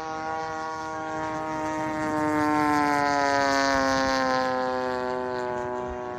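Model aircraft engine on a large-scale RC Spitfire making a flyby. Its steady note grows louder toward the middle and drops slowly in pitch as it passes and moves away.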